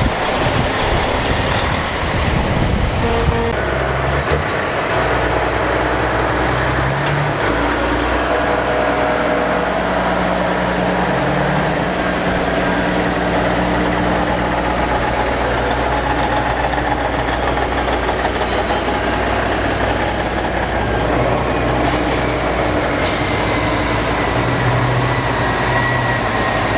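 Heavy diesel trucks rolling past one after another, their engines running steadily. Near the end there is a short hiss like an air brake releasing.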